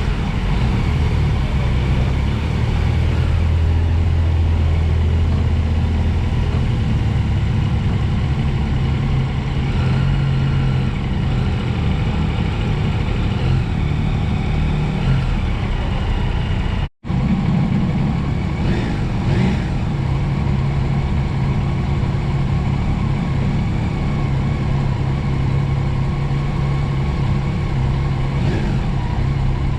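Yamaha Tracer 9 GT motorcycle's three-cylinder engine running at a steady pace under rushing wind noise, cutting out abruptly for an instant just past halfway.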